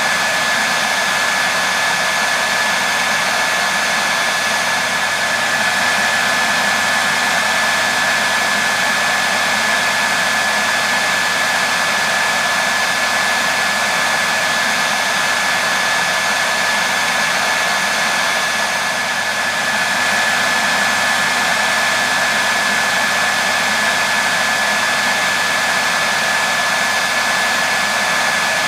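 Hair dryer running steadily: a continuous rushing blow with a steady high whine over it, used as white noise to settle a baby to sleep.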